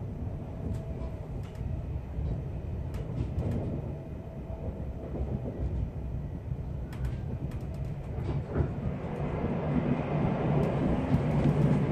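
Passenger train running, heard from inside the carriage: a steady low rumble of wheels on rails with a few light clicks. It grows louder in the last few seconds.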